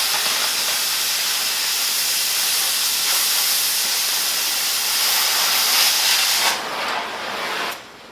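Oxy-fuel cutting torch blowing its cutting oxygen jet through half-inch steel plate, a loud steady hiss. About six and a half seconds in it drops to a softer hiss, which stops near the end.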